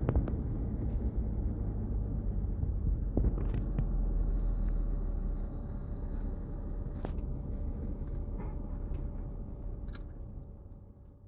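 Low, steady rumble of a car driving on the road, heard from inside the vehicle, with a few light clicks; it fades out near the end.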